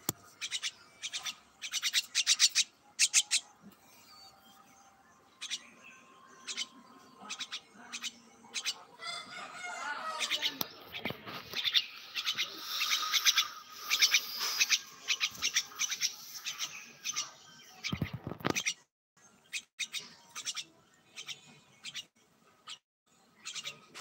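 Birds chirping and chattering in quick runs of short, high notes, busiest around the middle. A dull thump about three-quarters of the way through.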